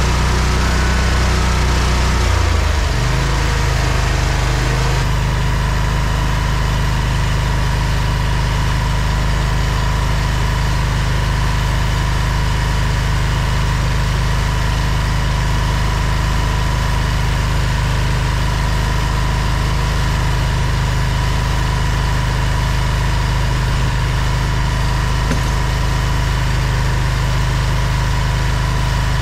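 An engine running steadily at idle. Its note changes about three seconds in, then holds even.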